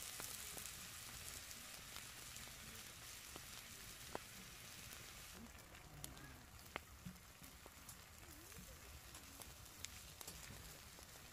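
Faint sizzling from spicy chicken feet frying in a cast-iron pan over the open flames of a camp stove, with scattered crackles and ticks. The hiss thins out about halfway through.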